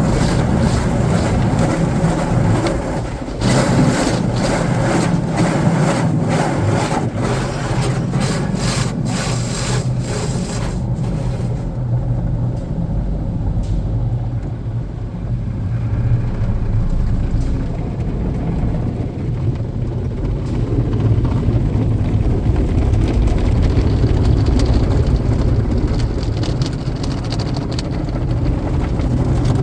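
Automatic car wash working over a car: water spray and brushes on the bodywork, with a quick run of knocks for the first ten seconds or so, then a steadier rushing with a low rumble.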